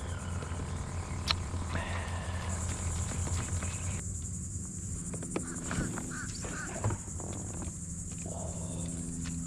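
Steady high-pitched insect buzzing that gets louder a couple of seconds in, over a low steady hum, with a few faint clicks.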